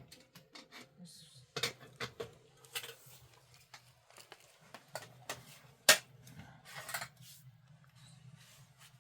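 A series of light clinks, clatters and knocks, like kitchenware or utensils being handled, with one sharp knock about six seconds in, over a faint steady low hum.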